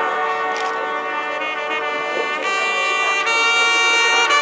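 Marching band brass section playing held chords, swelling louder and brighter about two and a half seconds in.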